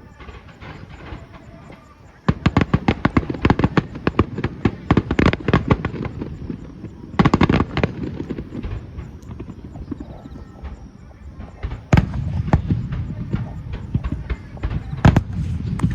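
Fireworks display: after a quieter first two seconds, a rapid volley of many bursts and crackles sets in, with another strong cluster later and single sharp bangs near the end.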